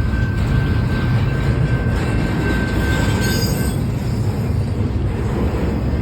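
Freight train cars rolling past, a steady heavy rumble with a thin, continuous wheel squeal; a brief higher squeal comes in about three seconds in.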